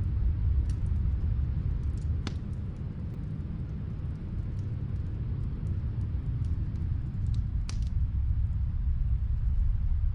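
Snowstorm wind blowing with a deep steady rumble, easing off a few seconds in and building again. Faint crackles of a wood fire pop now and then over it, with a couple of sharper pops.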